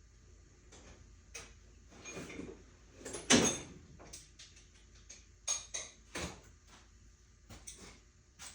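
Hand tools and parts being handled while working on the engine: a scattered run of clicks and knocks, with one louder scraping clatter about a third of the way through.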